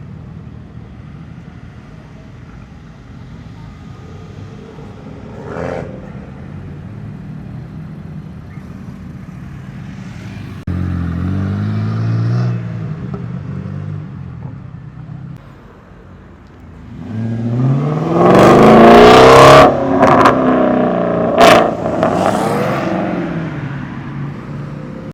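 Vehicle engine running, becoming suddenly louder about halfway through, then revved up with rising pitch to its loudest near the end. Two sharp cracks come during the revving.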